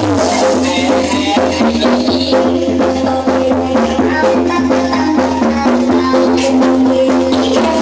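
Loud music played through a large carnival sound system's speaker stacks: a steady heavy bass line under held melody notes, with shaker-like percussion keeping the beat.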